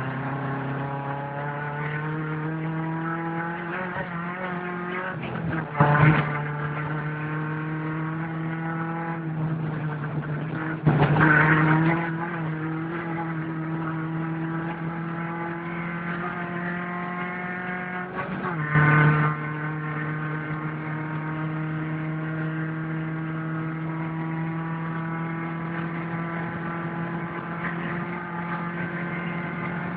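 VW Golf Mk2 rally car's engine running hard at fairly steady revs, heard from inside the cabin on a dirt stage. Three short, loud bursts of noise cut across it, about 6, 11 and 19 seconds in.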